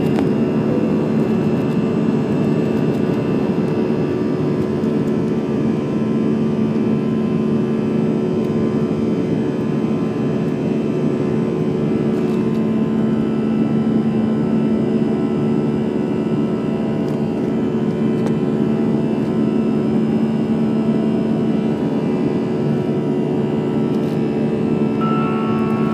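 Steady jet engine and airflow drone heard inside the cabin of an Airbus A320 at full power after takeoff, with a few constant low hum tones and no change in level.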